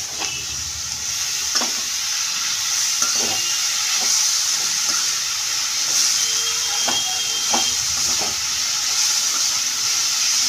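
Grated raw potato shreds sizzling steadily in hot ghee in a metal kadai. A spatula scrapes and knocks against the pan now and then as the shreds are stirred.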